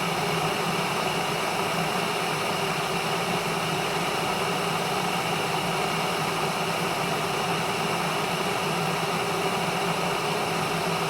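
Glass electric kettle heating water short of the boil, giving a steady hiss with a faint hum underneath.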